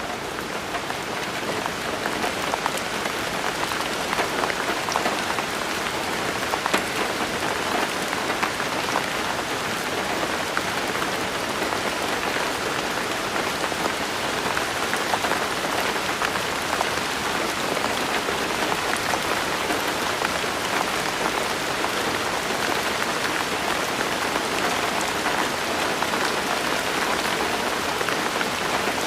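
Steady rainfall: a dense, even hiss of falling rain made up of many small raindrop ticks, growing a little louder over the first two seconds and then holding steady.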